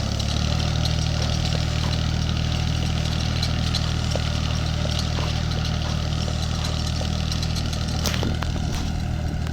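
Mini tractor engine running steadily at a constant speed, with a couple of faint clicks about eight seconds in.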